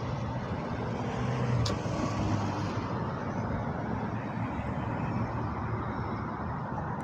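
Steady road and traffic noise while riding, with a vehicle passing about two seconds in and a brief sharp click just before it.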